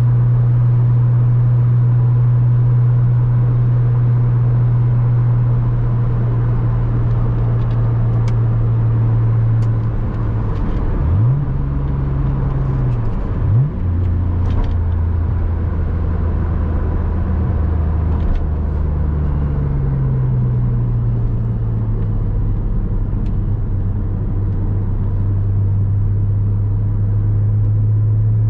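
Porsche Boxster 986 flat-six engine driving along at a steady pitch. About a third of the way in the note drops and then jumps up sharply twice in quick succession. It then runs lower for a few seconds before climbing back to a steady cruise.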